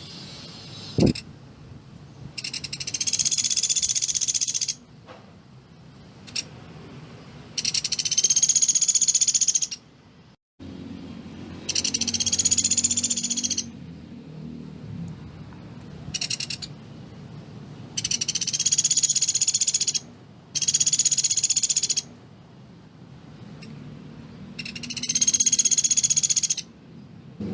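Sunda pygmy woodpecker (pelatuk beras) giving its rapid, dense trills, about six bursts of roughly two seconds each with a brief one between, repeated every few seconds. A single sharp click sounds about a second in.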